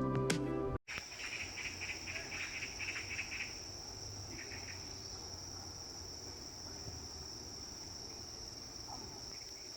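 Background music cuts off abruptly under a second in, giving way to insects: a steady high-pitched chirring throughout, with bursts of rapid pulsed trilling in the first few seconds.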